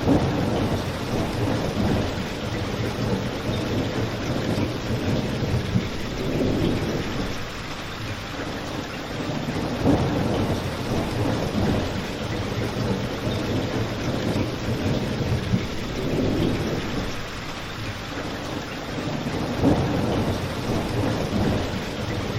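Rain falling outside, mixed with a crackling wood fire. A steady rushing patter with a deep rumble that swells and fades, and a few sharp pops scattered through it.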